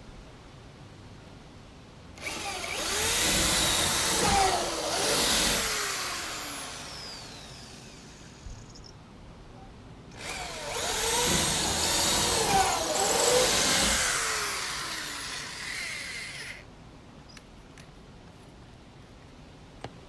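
Electric power drill run twice, each run about six seconds long, its motor pitch rising and falling as the trigger is worked.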